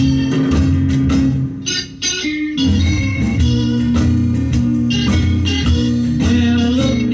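Instrumental passage of a 1964 pop song, with guitar and organ and no vocal, with a brief break about two seconds in before the band comes back in.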